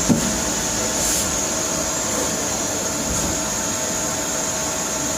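CNC machine tool running steadily, an even mechanical noise with a constant high whine, and one short knock just after the start.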